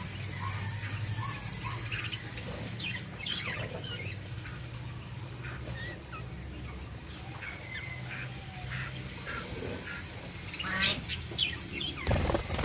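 Budgerigars chirping and chattering in short scattered calls, with a louder burst of rapid, scratchy calls about eleven seconds in.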